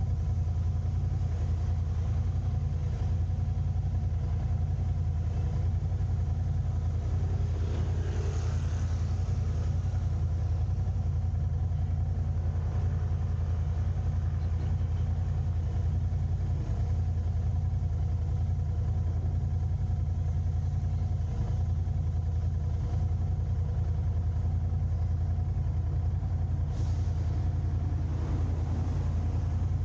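Steady low rumble of a car driving, its engine and road noise, with a brief louder swell about eight seconds in.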